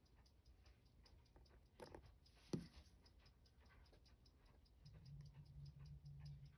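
Faint, rapid, even ticking of a mechanical watch movement, a Seiko 6139 chronograph, at about six ticks a second. Two small sharp clicks of a tool on the bench come about two seconds in, and a low steady hum starts near the end.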